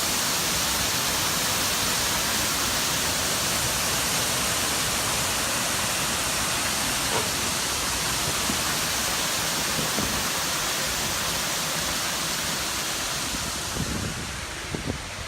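Steady rush of water falling at a waterfall, a little quieter and duller near the end, with a few faint ticks.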